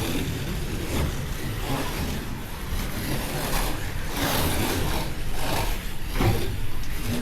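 Slot cars running laps on the track, the electric motors whining and the cars swelling in level each time one passes close by.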